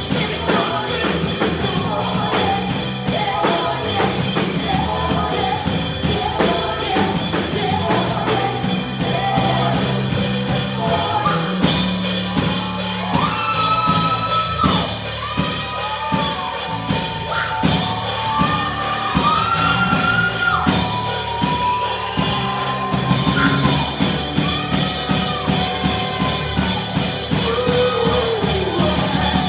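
Gospel worship music with a drum kit, a steady beat and singing; long held sung lines come in about twelve seconds in.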